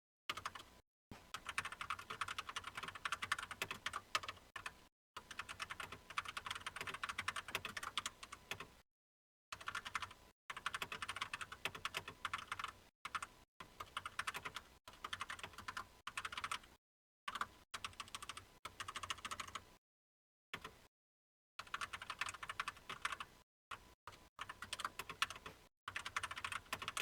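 Typing on a computer keyboard: rapid key clicks in runs of a second to a few seconds, broken by short silent gaps.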